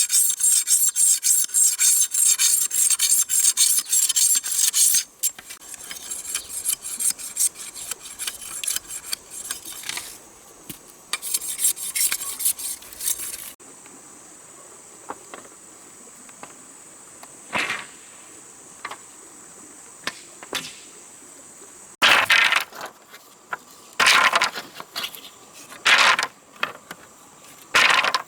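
Rapid, even rasping strokes of a hand tool working wood, about four or five a second, fading to lighter strokes after about five seconds. About halfway through they give way to a steady high insect drone, broken by a few separate scraping strokes near the end.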